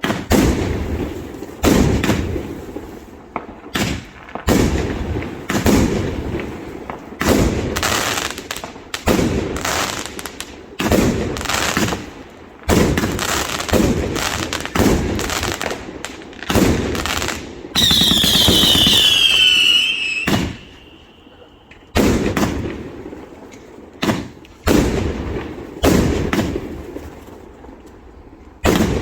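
Firework display: a steady series of loud aerial bangs, roughly one every second or so, each trailing off. About eighteen seconds in, several whistles fall in pitch together for about two seconds.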